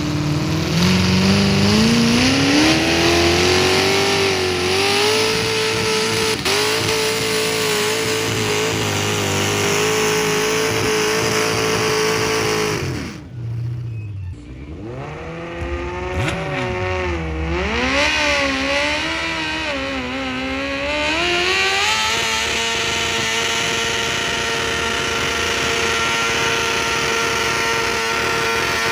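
Modified pulling tractor's engine revving up over the first few seconds and held at high revs for about ten seconds, then dropping off sharply. After a brief lull it revs up and down unevenly, then settles to a steady run.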